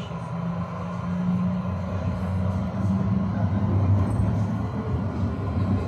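Tram running along its rails, heard from on board: a steady low hum from the motors and wheels that grows louder over the first couple of seconds.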